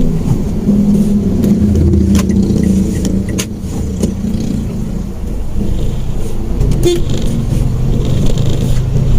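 Manual Mitsubishi Mirage hatchback driving on the road: a steady engine hum with road noise and a few light clicks. A brief rattle comes about seven seconds in, and the engine note drops lower near the end.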